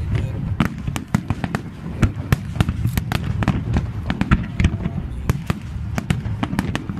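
Fireworks display going off: rapid, irregular cracks and pops from bursting aerial shells, several a second, over a steady deep rumble of launches and booms.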